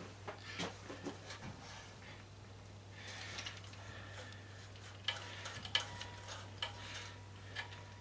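Hand tools clicking, tapping and scraping against the metal of an old belt/disc sander while working at a stuck Allen screw, with irregular sharp clicks that grow busier partway through, over a steady low hum.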